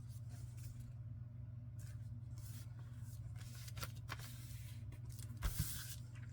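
Paper and card being handled and pressed down while gluing: faint rustling, with a couple of sharp taps about five and a half seconds in. A steady low electrical hum runs underneath.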